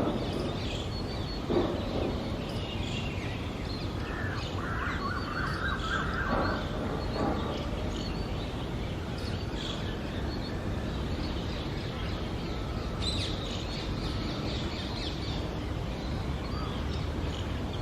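Birds calling over constant outdoor background noise: scattered high chirps throughout, a harsher call about a second and a half in, and a steady held note lasting a couple of seconds around the fifth second.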